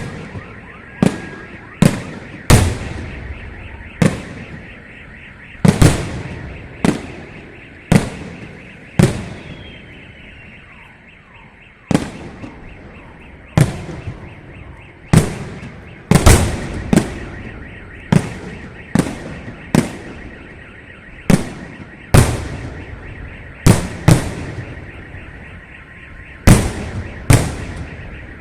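Fireworks salute: aerial shells bursting one after another, a sharp bang every second or two, each followed by a rolling echo.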